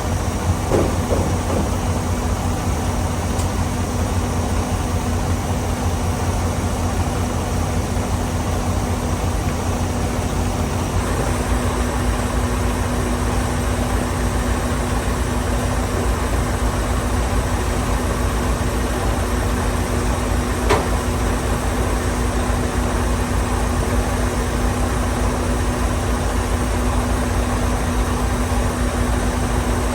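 Semi truck's diesel engine running steadily: a low drone with a constant hum above it. A single sharp click comes about two-thirds of the way through.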